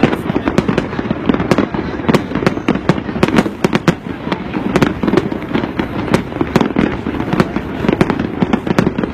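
Fireworks display going off: a rapid, continuous barrage of bangs and crackling bursts, several reports a second, overlapping one another.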